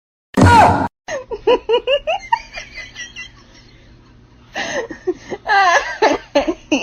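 People laughing in quick repeated bursts, after a short loud cry with a falling pitch about half a second in.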